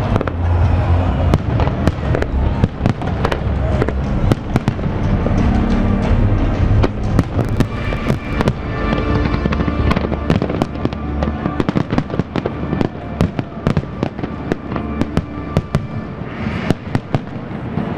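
Fireworks display: many sharp bangs and crackling bursts in quick succession, over music.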